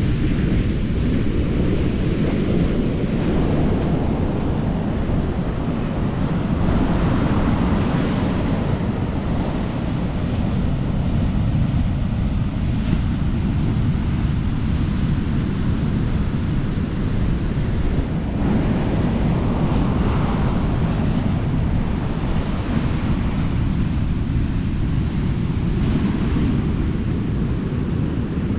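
Atlantic surf breaking and washing up a beach, with wind rumbling on the microphone; the wash swells up about eight seconds in and again around twenty seconds.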